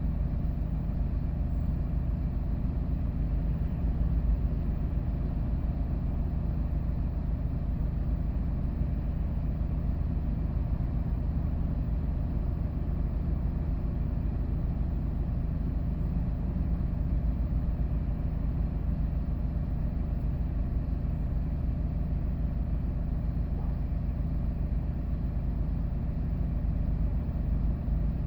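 Hyundai Porter II box truck driving, a steady low engine and road rumble heard inside the cab.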